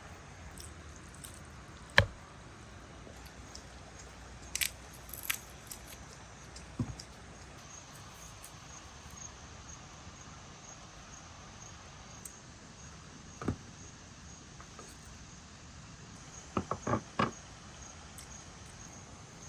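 Outdoor ambience with a cricket's steady high-pitched trill coming in about eight seconds in, over scattered short clicks and knocks, the sharpest about two seconds in and a quick run of four near the end.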